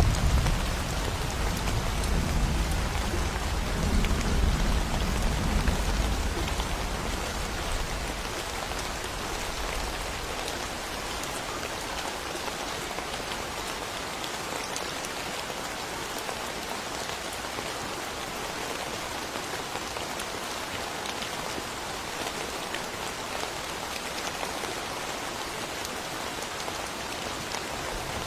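Steady rain falling in a thunderstorm. A low rumble of thunder dies away over the first several seconds, leaving only the even hiss of the rain.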